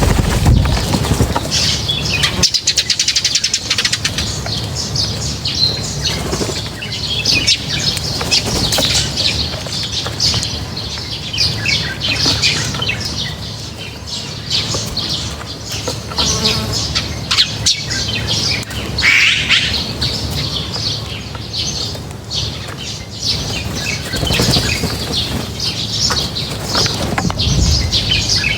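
A flock of birds at a feeding spot chirping continuously, with frequent short wing flutters and clicks mixed in.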